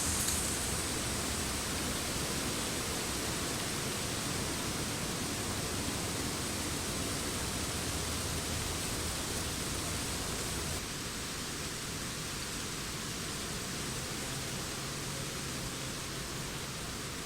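Steady wind in forest trees, a continuous rustle of leaves that gets slightly quieter about 11 seconds in.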